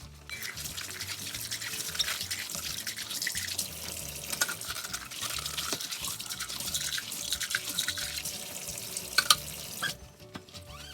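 Kitchen tap running into a sink during dishwashing, with a few clinks near the end; the water shuts off shortly before the end.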